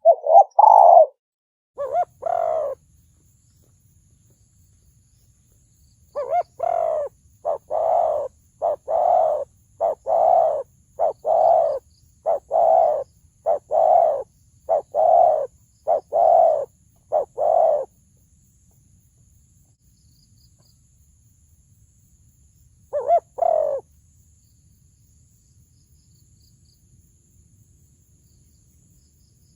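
Spotted dove of the deep-voiced 'thổ sấm' type cooing. Two coos come at the start, then a run of about a dozen coos at roughly one a second, then a pause and a pair of coos later on.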